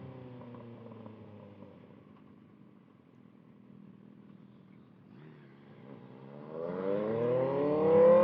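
Kawasaki ZX-6R's 636 cc inline-four through a Voodoo Racing slip-on exhaust. The engine note falls away and goes faint. From about six seconds in, the revs climb steeply and loudly under acceleration, peaking right at the end.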